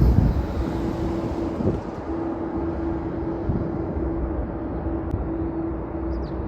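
Jet airliner taking off: a steady, loud engine rumble with a faint hum that fades in and out, and a thump right at the start.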